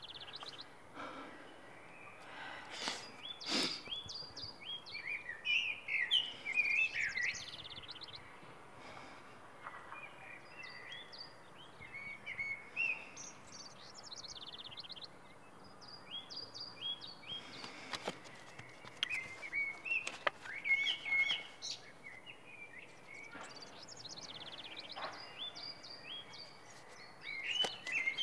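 Songbirds chirping and singing in short, repeated phrases of quick high notes, with a couple of faint clicks about three seconds in.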